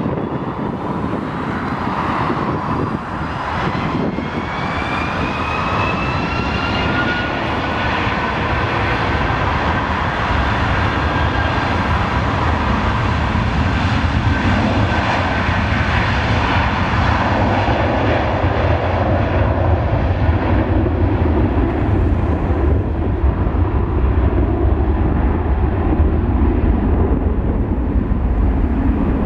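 Boeing 757-200 jet engines at takeoff power. A whine rises in pitch over the first several seconds, then holds steady over a deep rumble that keeps building, while the high whine fades toward the end.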